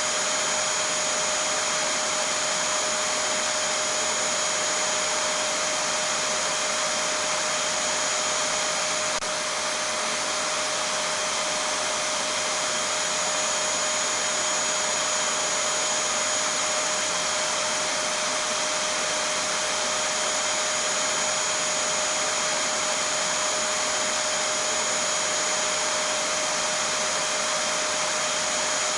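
Vacuum cleaner running continuously: a steady rushing noise with a constant whine held at one pitch, with no change in speed or load.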